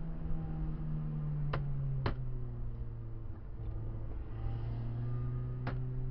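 Renault Clio 16V's engine running on track, heard from inside the cabin; its note drops in pitch about two seconds in and then holds steady. A few sharp clicks come through over the engine.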